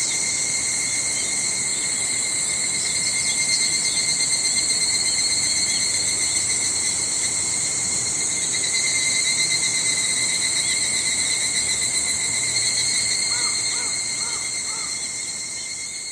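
Higurashi (evening cicadas) and niiniizemi cicadas calling together in a steady, shrill, continuous chorus. About three-quarters of the way in, four short arched notes sound lower beneath it, and the whole chorus begins to fade near the end.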